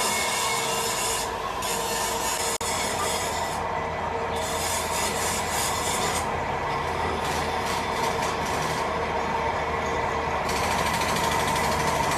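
Steady machine noise from gear-making machinery: a dense, even noise with a few steady tones under it. Its hiss fades several times and comes back, with one brief drop about two and a half seconds in.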